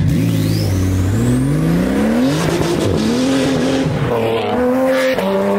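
Car engine revving hard under acceleration, its pitch climbing steeply over the first two seconds, then dropping and climbing again.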